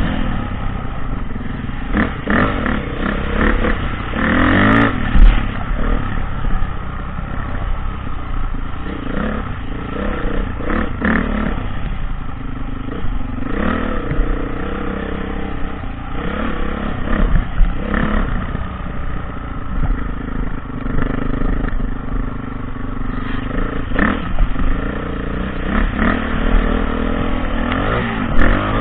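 Dirt bike engine running hard off-road, its pitch rising and falling again and again as it revs up and drops back, with scattered knocks and clatter.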